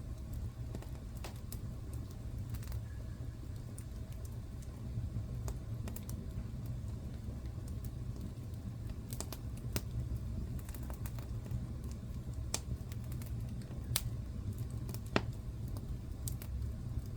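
Wood fire burning in a fireplace: a steady low rumble of the flames with irregular sharp pops and crackles, two louder pops near the end.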